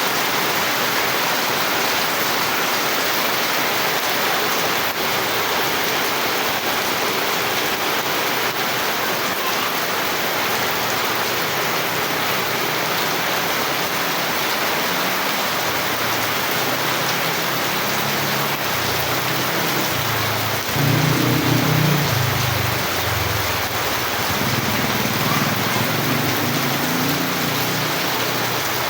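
Steady heavy rain hissing. From about halfway in, low thunder rumbles under it, swelling loudest about 21 seconds in and then rolling on more softly.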